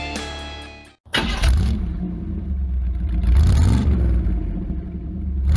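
Music fades out and stops about a second in. A pickup truck's engine, most likely the 1969 Chevrolet C10's, then runs with a low rumble and is revved, its pitch rising and falling.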